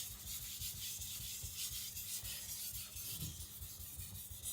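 Tojiro white-steel (shirogami) nakiri blade being stroked back and forth on a Naniwa Professional 3000-grit water stone: a steady, repeated rubbing hiss of steel on the wet stone.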